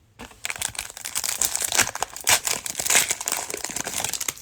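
Plastic wrapper of a trading-card cello pack crinkling as it is torn open, a dense run of crackles that begins a moment in.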